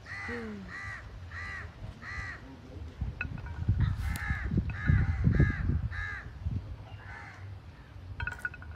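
A bird calling over and over in short, arched calls: four in the first two seconds, then after a pause about six more. A low rumble, loudest in the middle, runs under the later calls.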